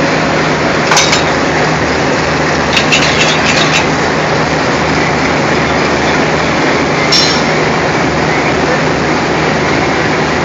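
Diesel locomotive engine running steadily, with short metallic clanks about a second in, a quick run of clinks around three seconds in, and another clank near seven seconds in.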